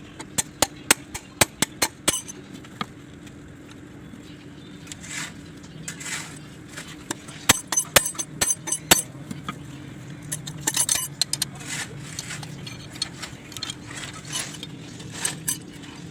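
Loose metal engine parts and tools clinking against each other as they are handled, in quick runs of sharp clinks over a low steady hum.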